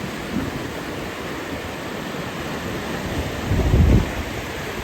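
Tidal water rushing through the reversing falls as the incoming tide swells the flow from a stream to a torrent, a steady noisy rush. About three and a half seconds in, a brief low rumble of wind buffets the microphone and is the loudest moment.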